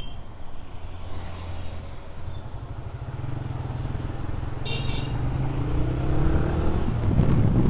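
Motorcycle engine running on the road, its pitch rising over a few seconds as it accelerates, with a short high beep like a horn toot about five seconds in.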